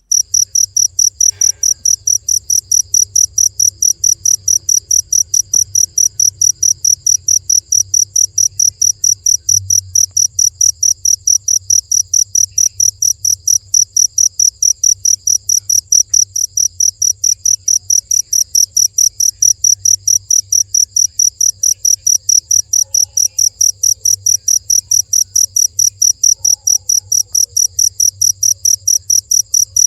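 Cricket chirping steadily at night, an even train of high chirps about three or four a second.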